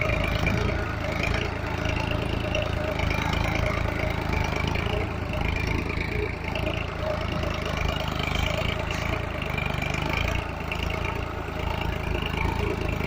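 Solis tractor's diesel engine running steadily at a low, even speed, with a constant rumble.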